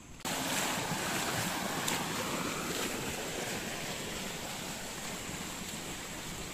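Steady rush of fast-flowing river water, starting suddenly about a quarter second in and easing slightly toward the end.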